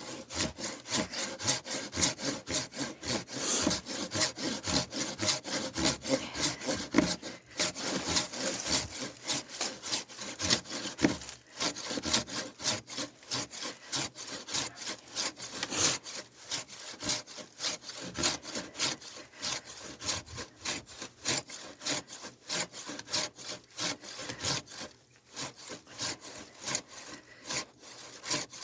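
Hand saw cutting through firewood in steady back-and-forth strokes, about two to three a second, with a brief pause near the end.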